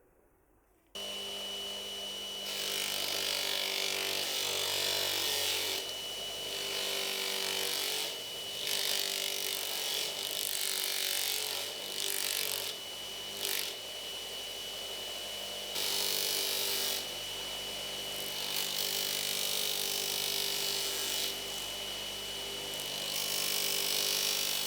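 Restored Elettromeccanica Generale three-phase bench grinder running on an inverter, with a steady high whine and motor hum, while a workpiece is held against the wheel again and again, grinding in stretches of a few seconds. It starts abruptly about a second in and cuts off just before the end.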